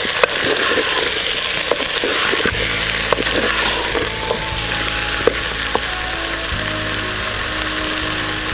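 Vegetables sizzling as they fry in a clay pot while a wooden spoon stirs them, knocking and scraping against the pot now and then. Soft background music with held low chords comes in a couple of seconds in.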